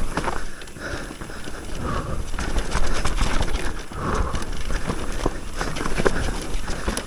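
E-mountain bike riding fast down a loose, rough dirt trail: tyres on dirt under a steady low rumble, and many short knocks and rattles from the bike over bumps.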